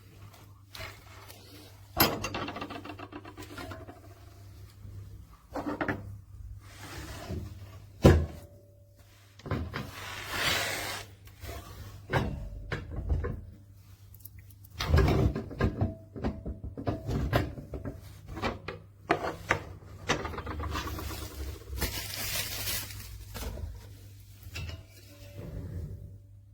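Irregular handling noises: knocks, scraping and rubbing, with one sharp knock about eight seconds in, over a steady low hum.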